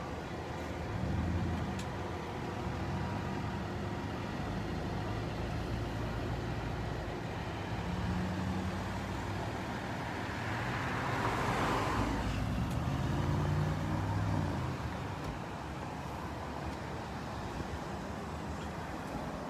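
A line of cars and trucks driving past, engines running, with one vehicle passing close and loudest a little past the middle.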